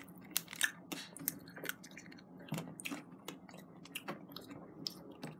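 A child chewing candy close to the microphone: irregular small wet clicks and smacks, several a second.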